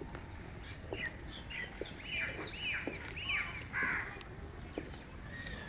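A bird calling in a quick run of short calls, each dropping in pitch, loudest between about two and four seconds in, with a few faint clicks.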